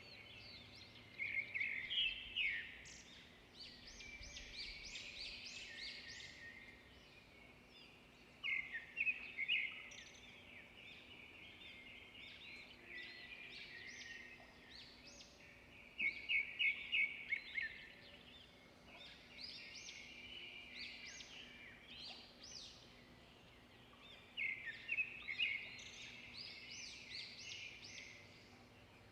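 Birds singing: a loud phrase of rapid repeated notes comes about every seven to eight seconds, with softer chirping and twittering from other birds in between.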